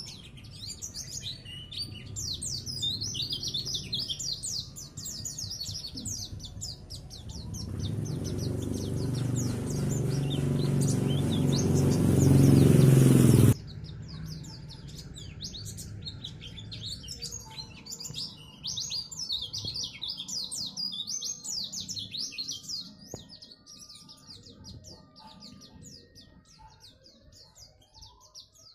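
A pleci (white-eye) singing a fast, continuous twittering song of rapid high chirps. A low rumbling noise builds up louder from about eight seconds in and cuts off suddenly near the middle.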